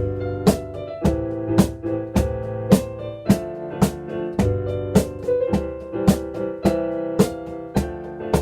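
Piano playing sustained chords, with a cajón keeping a steady beat of sharp slaps about twice a second.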